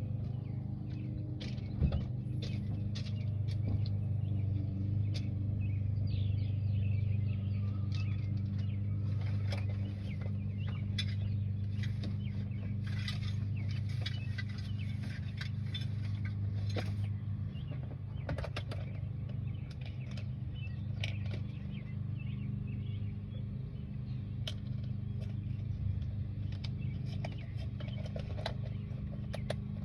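A steady low mechanical hum, like an engine or motor running, with many short high chirps of small birds over it. A single sharp knock comes about two seconds in.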